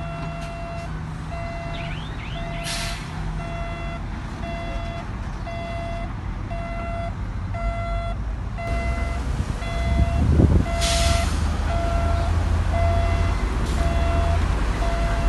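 Reverse alarm on a heavy construction machine beeping steadily, about two beeps a second, over the low rumble of its diesel engine, which swells briefly about ten seconds in. Two short hisses cut in, one near three seconds and one near eleven.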